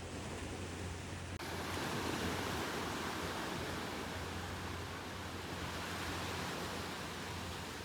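Steady rush of ocean surf, swelling about two seconds in and easing off. It starts abruptly after a short stretch of duller noise with a low hum.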